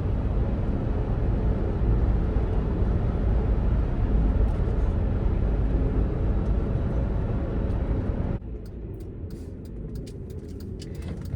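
Cabin road and engine noise of a 2005 Land Rover Freelander on the move: a steady low rumble that drops off abruptly about eight seconds in, leaving quieter running noise with a few light clicks.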